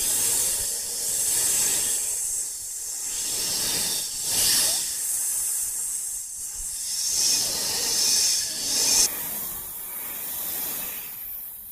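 An animal hissing: a long, breathy hiss that swells and fades every couple of seconds.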